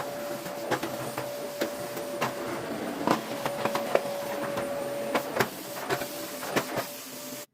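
A small motor running steadily with a held tone, overlaid by irregular clicks and knocks of things being handled; it all cuts off suddenly near the end.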